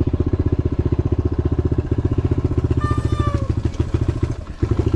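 Dirt bike engine running with a fast, even putting beat, which eases and stutters near the end. A brief high tone sounds over it about three seconds in.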